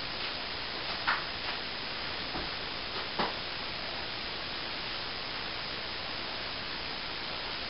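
A steady hiss with a few short, light knocks, the sharpest about one second and three seconds in.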